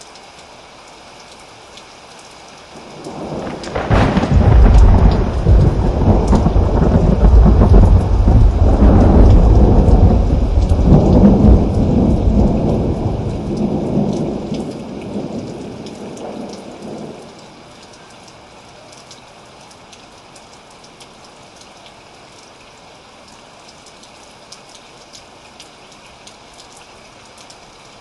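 Steady rain falling, with a long roll of thunder that builds about three seconds in, rumbles deep and loud for several seconds, then dies away about halfway through, leaving only the rain.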